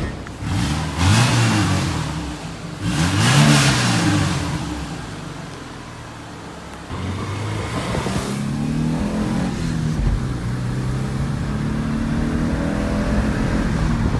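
A 2001 Subaru Outback Sport's flat-four boxer engine, its catalytic converter removed and with a small exhaust leak, revved twice in the first few seconds, the pitch climbing and falling each time. It then drops back, and from about halfway through runs at a raised steady speed with a few smaller revs.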